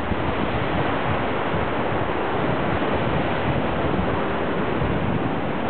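Typhoon-driven sea waves making a steady rush of surf, with wind buffeting the microphone.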